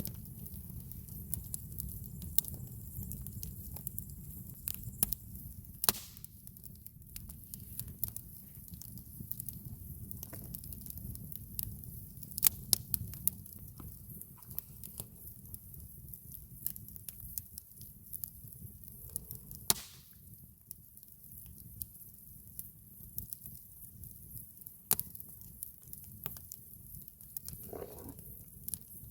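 Campfire wood crackling, with irregular sharp pops and snaps and a few louder cracks about 6, 12 and 20 seconds in, over a low steady rumble.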